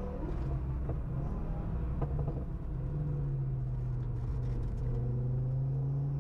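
Onboard sound of an Audi S1 running a swapped-in RS3 2.5-litre turbocharged five-cylinder engine at lap pace. The engine note is uneven for the first few seconds, then holds a steady pitch from about three seconds in.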